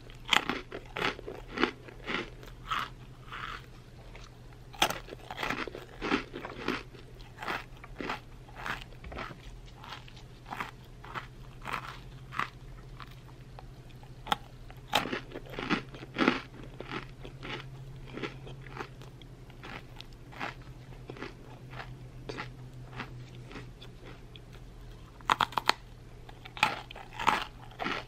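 Close-miked chewing of crunchy Korean pretzel snacks: clusters of sharp, crackly crunches with quieter chewing in between, busiest at the start, again about halfway and near the end. A low steady hum runs underneath.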